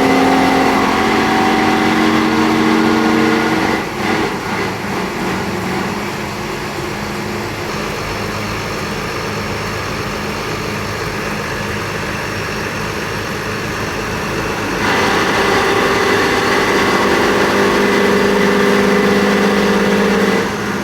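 Pump engine running steadily at its set warm-up speed under an auto-start controller, before it ramps up to operating speed and pressure. Its sound dips about four seconds in and comes back louder and fuller about fifteen seconds in.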